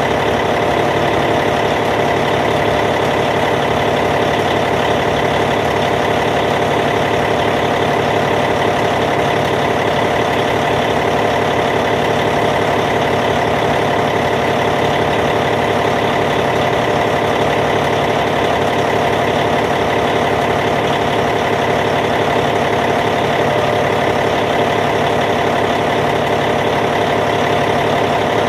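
Caterpillar C15 diesel engine of a Cat D8T bulldozer idling steadily, holding an even, unchanging speed.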